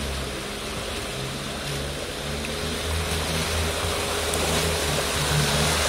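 Lada Niva 4x4's engine working through deep mud, its pitch rising and falling with the throttle as the tyres churn. It grows gradually louder as the vehicle comes closer.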